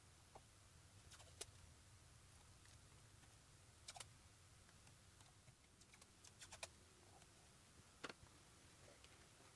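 Near silence broken by faint, scattered clicks and taps, a dozen or so at irregular intervals, over a low steady hum.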